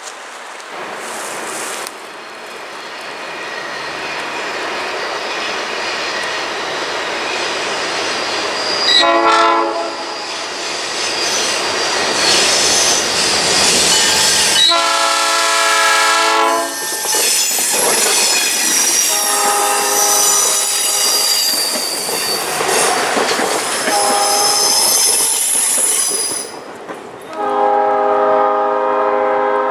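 Passenger train approaching and passing: a steady rumble of wheels on rail that builds, with high wheel squeal through the middle. The locomotive's multi-note air horn gives a short blast about nine seconds in, then long, long, short, long, the grade-crossing signal.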